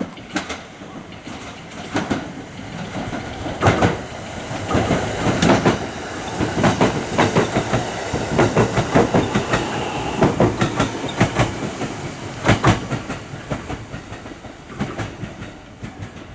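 Electric train running through the station, its wheels clacking rhythmically over the rail joints. It grows loud a few seconds in, holds for several seconds, then fades.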